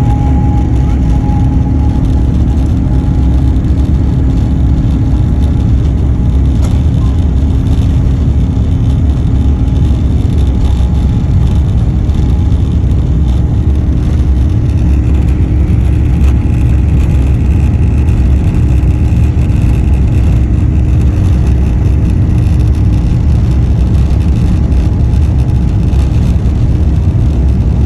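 Airbus A350's Rolls-Royce Trent XWB engines heard from inside the cabin during take-off: a loud, steady rumble with a low engine hum, and a higher whine joining about halfway through.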